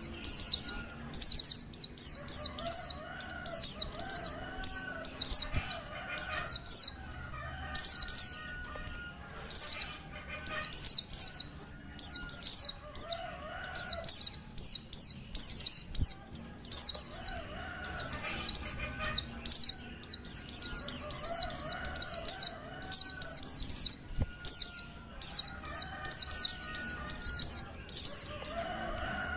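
Female white-eye (pleci) calling: very high, rapid runs of short downward-sweeping notes, each run about a second long, repeated over and over with brief gaps. Fainter, lower warbling calls sound beneath them.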